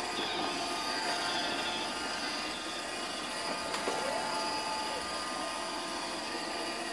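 iRobot Roomba 620 robot vacuum running: a steady whir from its motor and brushes with a few faint whining tones, and a brief click and squeak a little past the middle.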